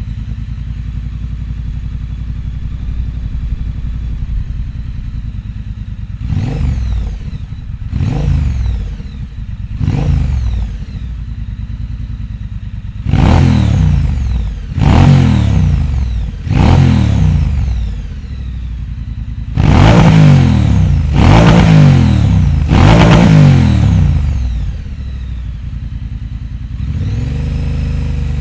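2022 Triumph Bonneville T120's 1200 cc parallel-twin engine running through a British Customs Predator Carbon 3.5-inch exhaust with the catalytic converter fitted. It idles and is revved in three groups: three short throttle blips, then three longer revs, then three longer, louder revs, each falling back to a steady idle.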